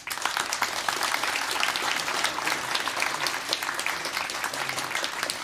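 Audience applause, many hands clapping, starting suddenly as the song ends and holding steady.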